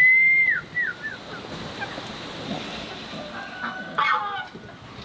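Chickens calling: a loud high held note at the start that drops away into a few short falling notes, then another burst of calls about four seconds in.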